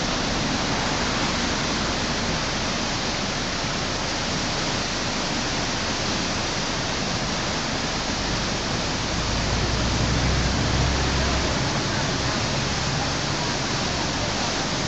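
Whitewater rapid on a river, rushing steadily. A low rumble swells briefly about two-thirds of the way through.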